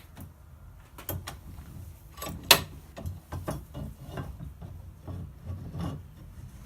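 Irregular clicks and knocks of parts being handled during repair work, with one sharp, much louder knock about two and a half seconds in.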